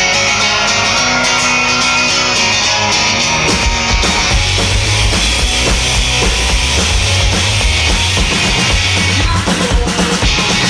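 Live rock band starting a song: guitar leads off, and the bass and drums come in about four seconds in, the full band then playing on steadily.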